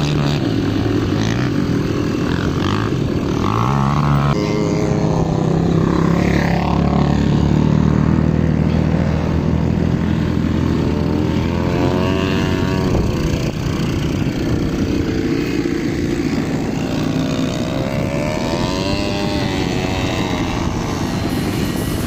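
Small off-road ATV engine running and revving, its pitch rising and falling as the throttle changes.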